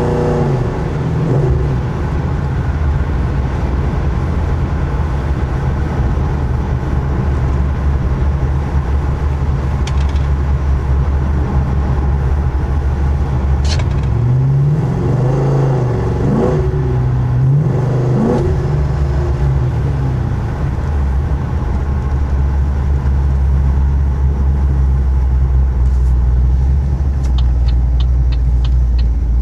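Pontiac G8 GT's cammed 6.0 L V8 with long-tube headers and Pipes Violator mufflers, heard from inside the cabin. Its pitch falls from about 4000 rpm as the throttle is closed, then it rumbles at low rpm while the car slows, with the revs rising and falling a few times about halfway through. A turn signal ticks near the end.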